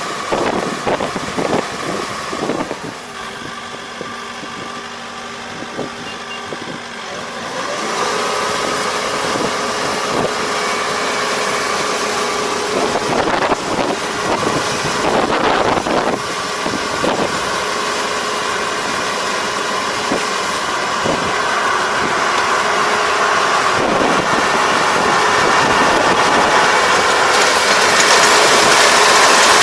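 ER470 combine harvester running, a steady engine note under mechanical clatter. It grows louder about a quarter of the way in and again near the end.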